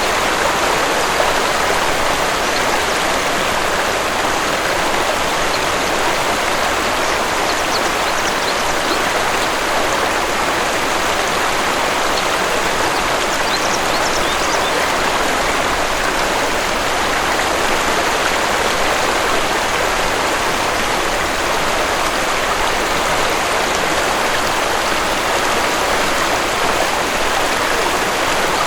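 Waterfall rushing steadily, with a few faint, high bird chirps over the water noise.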